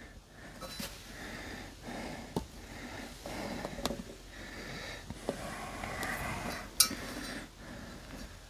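Rubbing and scuffing as a hand feels around the inside of a tractor tire for debris, with a few light clicks and a sharper click about seven seconds in.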